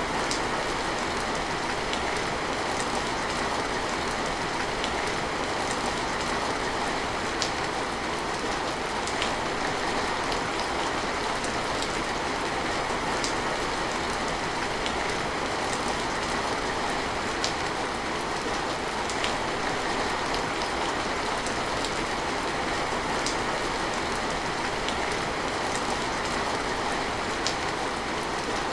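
Steady rain falling, with scattered sharp drips ticking every second or two.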